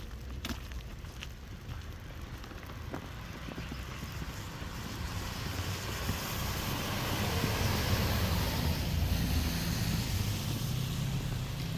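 A car passing on a snowy street, its engine rumble and tyre hiss swelling to loudest about two-thirds of the way in, then easing off.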